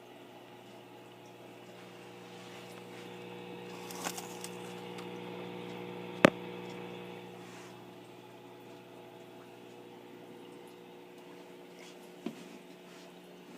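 Steady electrical hum with a faint sound of moving water from running aquarium equipment. A sharp click about six seconds in, with lighter clicks around four seconds and near the end.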